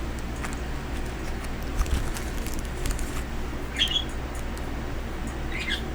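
A pet bird gives two short, high chirps, one about four seconds in and one near the end. Faint taps from handling craft items and a soft knock about two seconds in sit over a low steady room hum.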